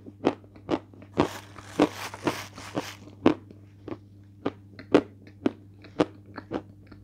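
Crunchy chewing of a hard piece of edible chalk close to the microphone: sharp crunches about twice a second, with a denser crackling stretch about a second in as the piece breaks up between the teeth.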